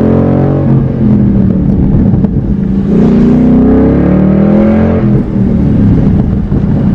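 Ford Mustang GT's 5.0 Coyote V8 running loud with its exhaust cutouts open, which amounts to a muffler delete. The engine revs under acceleration, its pitch climbing for about two seconds, then drops off about five seconds in.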